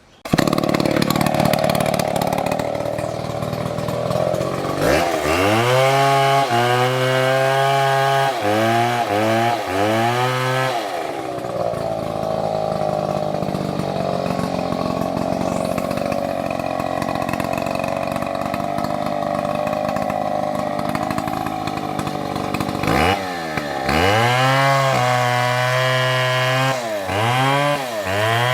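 Large MS720 two-stroke chainsaw starting suddenly and running hard. It is revved up and down in quick repeated bursts about a third of the way in and again near the end, with a long steady stretch between as it cuts through the trunk.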